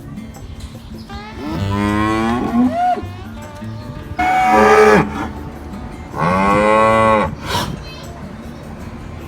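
Cows mooing: three separate moos, each about a second long, with the middle one the shortest and loudest.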